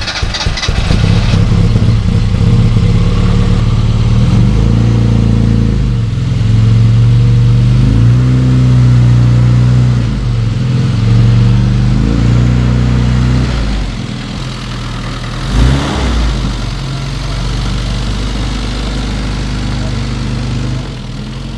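Classic Mini's A-series four-cylinder engine running just after starting, its revs rising and falling several times as the car is moved.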